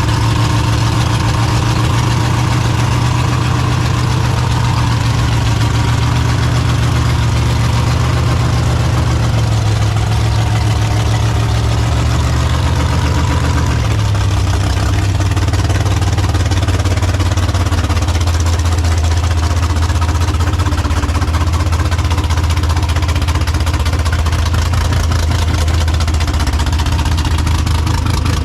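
A car engine idling with a loud, deep exhaust rumble; the idle drops to a lower pitch about halfway through.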